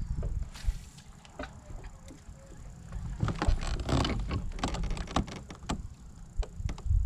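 Scattered knocks and clicks of gear being handled on a kayak, over a steady low rumble, with a cluster of sharper knocks in the middle and another near the end.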